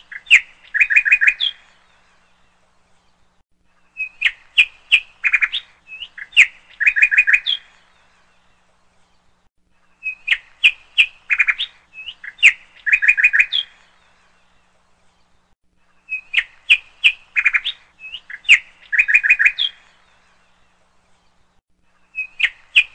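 A songbird singing the same short phrase over and over: a few sharp chirps, then a quick trill. The phrase comes about every six seconds with short pauses between.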